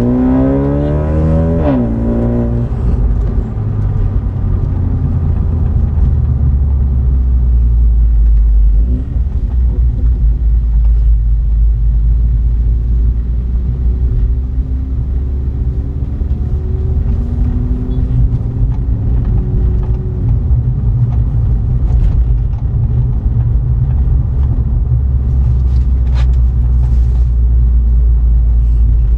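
BMW 330i's B48 turbocharged 2.0-litre four-cylinder with a modified exhaust, under way. Revs fall over the first two seconds, then it settles into a steady low drone while cruising, with a few gentle rises in pitch in the middle.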